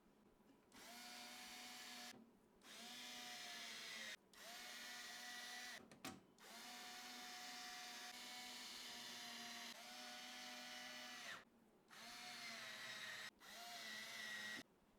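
Small electric screwdriver motor whirring in short runs, about seven of them lasting one to three and a half seconds each, with brief pauses between, its whine steady while it runs.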